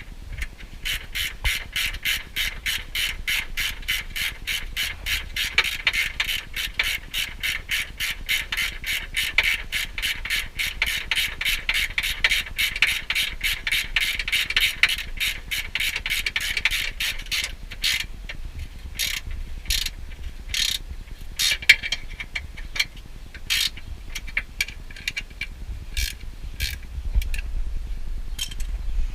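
Ratchet wrench with a 16 mm socket clicking steadily, about four clicks a second, as it is worked on an engine mount bolt. About two-thirds of the way through the clicks turn sparse and irregular.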